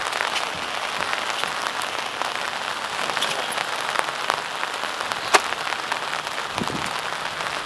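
Heavy rain falling steadily, a dense hiss full of sharp individual drop hits, with one louder tap about five seconds in.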